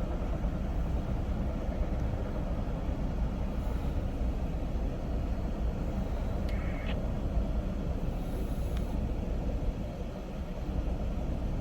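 Freight train rolling past: a steady rumble of rail cars on the track, with one short, higher-pitched squeal about two-thirds of the way through.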